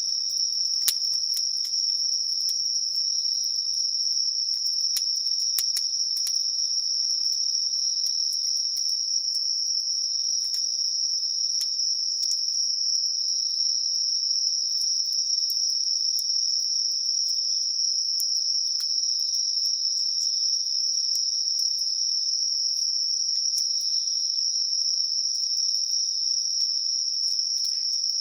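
A chorus of singing insects, crickets and the like, keeping up one steady, unbroken high-pitched trill. Scattered sharp crackles from a wood campfire come through it, more often in the first half.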